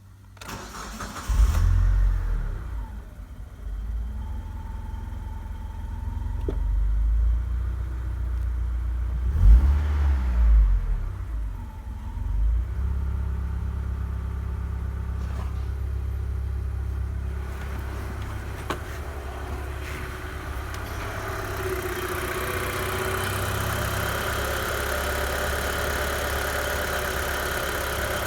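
Mitsubishi Carisma's 1.8 GDI 4G93 four-cylinder petrol engine starting about a second in, revved up and down a few times, then idling steadily. More high-pitched noise joins the idle over the last several seconds.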